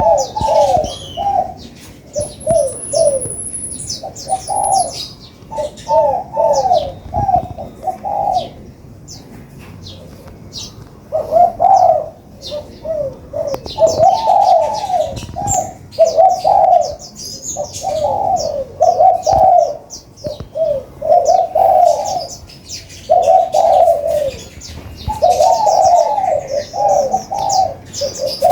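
Spotted doves cooing in repeated short phrases of a few notes, one phrase every second or two, with a pause of about three seconds a third of the way in. Small birds chirp high and thin over the coos.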